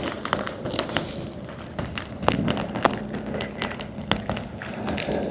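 Storm rain and wind: a steady rush of noise with many irregular sharp clicks of raindrops striking the microphone.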